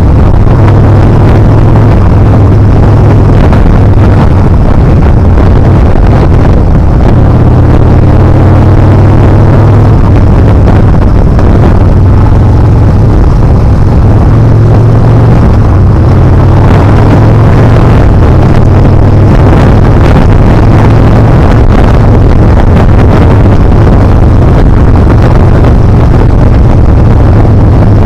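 Yamaha Bolt R-spec's air-cooled V-twin running loud on the move, its note shifting up and down several times with the throttle, under heavy wind buffeting on the action camera's microphone.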